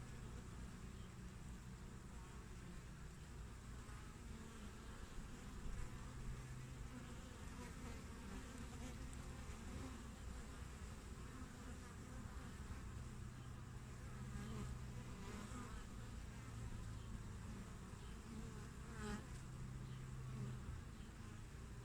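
Honeybees (Apis mellifera) at a hive entrance: a steady hum of many bees flying, with a few single bees buzzing briefly close by, the loudest shortly before the end.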